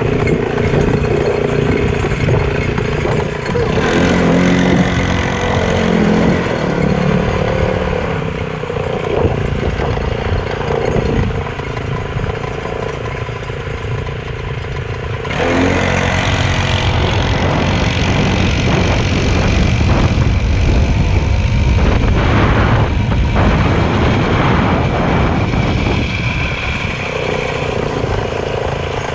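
Motorcycle engine running with wind and road noise, easing off in the middle and getting louder again about halfway through.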